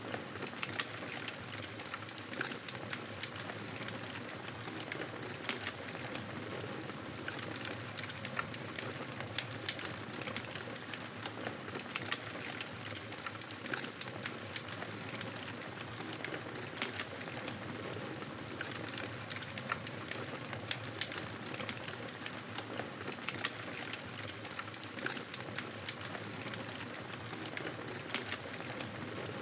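Wood fire crackling in a fireplace: a steady hiss of flames with many small, sharp pops and snaps scattered irregularly throughout.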